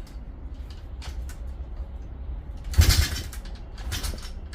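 140cc pit bike engine being kicked over without firing: a loud whoosh about three seconds in and a weaker one about a second later, over a steady low rumble.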